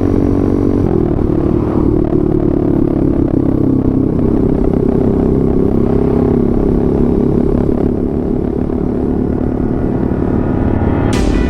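Motorcycle engine and exhaust running steadily while riding, the pitch dropping about a second in and then holding even.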